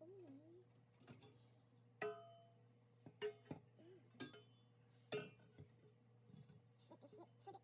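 Irregular metallic clinks and taps of hand tools and exhaust parts being handled during an exhaust install, a few of them ringing briefly, over a faint steady hum.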